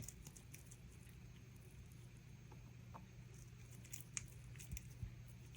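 Near silence: room tone with a steady low hum and a few faint, light ticks and taps.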